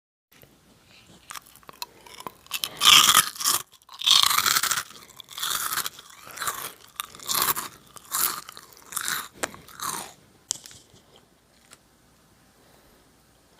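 Close-miked crunching of Jagalchi, a crisp fried wheat snack, bitten and chewed with the mouth near the microphone. Loud crunches come in quick succession for several seconds, then slow to roughly one a second and die away after about eleven seconds.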